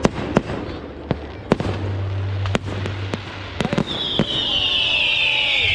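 Fireworks display: a scatter of sharp bangs from bursting fireworks. About four seconds in, a loud, high-pitched screeching hiss from a firework sets in and keeps going.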